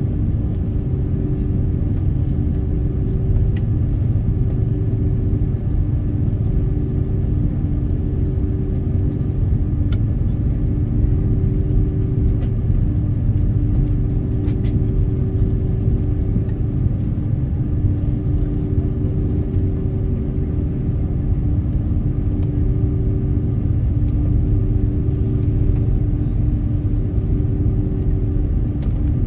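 Steady low rumble inside an airliner's cabin on the ground before takeoff, with an engine hum that swells and fades every second or two.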